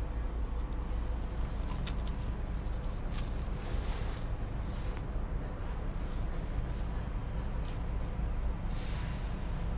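Steady low rumble inside a SEPTA Regional Rail train car, with hissing of air twice: once for about two and a half seconds starting a couple of seconds in, and again briefly near the end.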